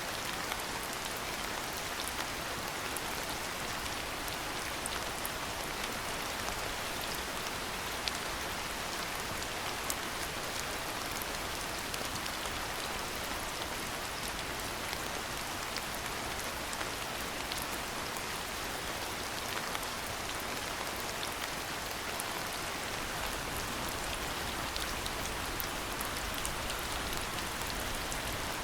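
Steady rain falling, with scattered louder drops tapping now and then.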